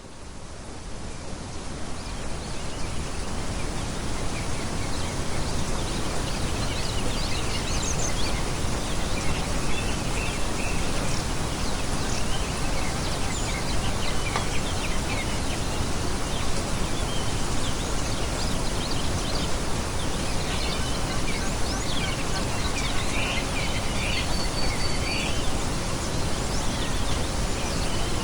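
Small songbirds chirping and calling in scattered short notes, more often toward the end, over a steady rushing noise that fades in over the first couple of seconds.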